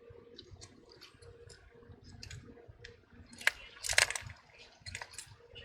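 Small scattered clicks and taps from tools and phone parts being handled during reassembly, with two louder clicks about three and a half and four seconds in.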